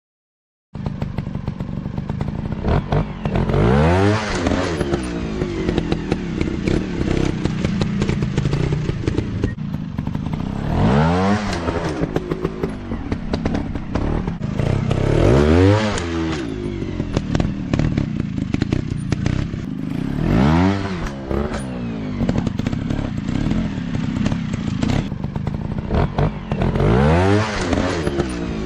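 Dirt bike engines running off-road, the pitch rising and falling in about five big revs as they work through the terrain, with clattering knocks mixed in. The sound cuts in less than a second in.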